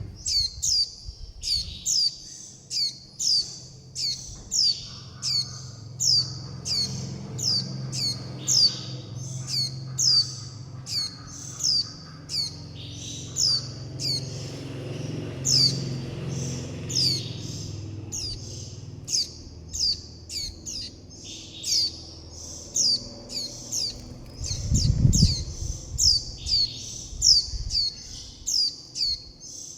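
Juvenile white-eyes calling over and over, short high falling notes about twice a second, the begging and contact calls of young birds asking to be fed. A low rumble sits under the calls midway, and a dull low thump comes near the end.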